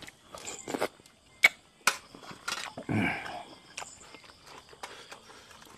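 Crunching and chewing of boiled buffalo skin, picked up close by a lapel microphone: several crisp crunches spaced about half a second apart, then a louder, fuller mouth sound about three seconds in.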